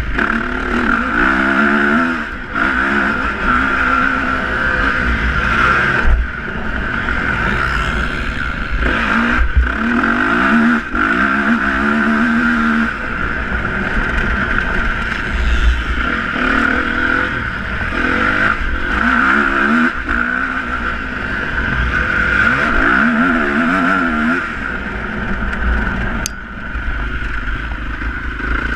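Motocross bike engines revving, their pitch rising and falling again and again through gear changes.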